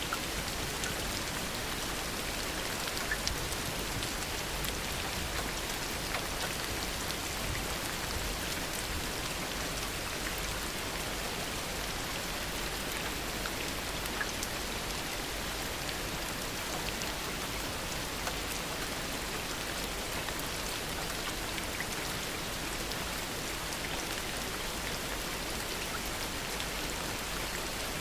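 Heavy rain falling steadily, with individual drops ticking here and there through the constant hiss.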